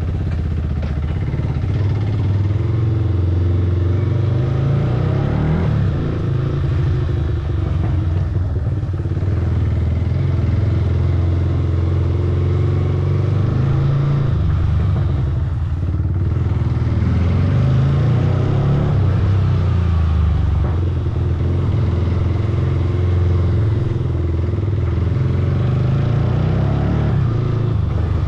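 Motorcycle engine running under way, a steady low drone whose pitch shifts slightly with the throttle and eases briefly a couple of times.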